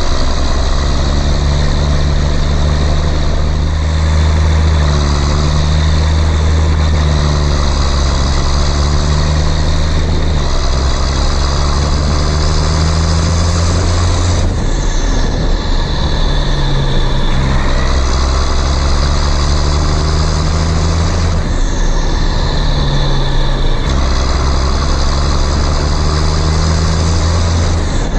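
Heavy engine sound of a cartoon tractor, running steadily with a deep hum. It changes abruptly about halfway through and twice more near the end, as if cut between takes.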